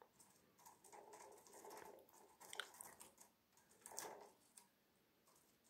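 Faint crunching and clicking of a cockatiel's beak nibbling and cracking a peanut, in scattered small bites.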